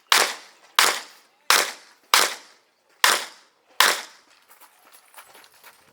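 Six revolver shots fired at a steady pace, about one every three-quarters of a second, each a sharp crack with a short echo. Then faint small clicks and rustling.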